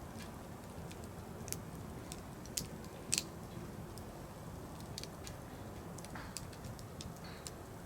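Burning firewood crackling, with scattered sharp pops over a low steady noise; the loudest pop comes about three seconds in.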